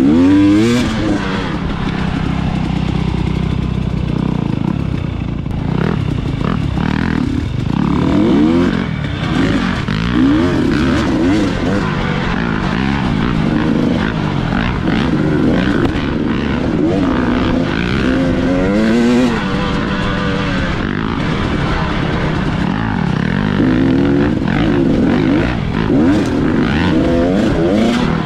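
Dirt bike engine revving up and falling off again and again, with repeated rises and drops in pitch as the throttle is opened and closed on the trail.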